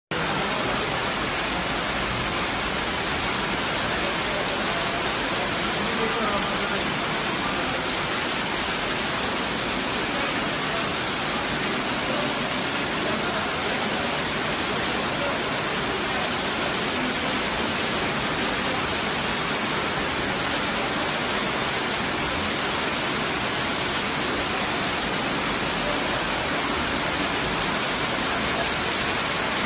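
Steady rush of falling, splashing rainwater, an even hiss with no break.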